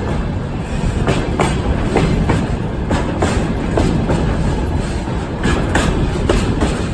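Freight train running, heard from inside one of its wagons: a steady low rumble broken by about ten sharp, irregularly spaced clacks of the wheels over the rails.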